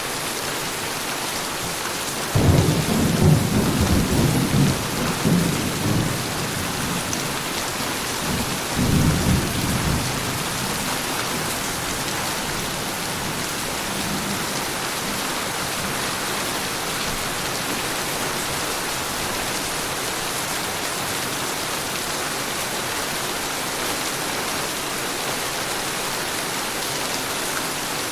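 Heavy rain falling in a steady hiss. Thunder breaks in suddenly about two seconds in and rumbles for several seconds, then a second, shorter roll of thunder comes a few seconds later.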